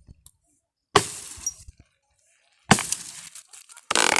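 Pieces of dry firewood and branches thrown down onto a pile. There are three sudden crashes, each with a short clattering tail, and a busier run of clattering and cracking starts near the end.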